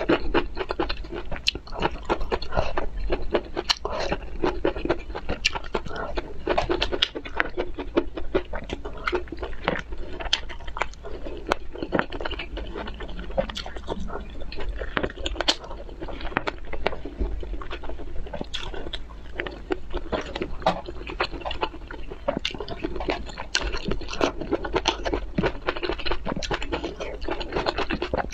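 Close-miked eating sounds of a person biting and chewing broccoli florets, cherry tomatoes and other small foods. Many short sharp crunches and crackles follow one another without a break.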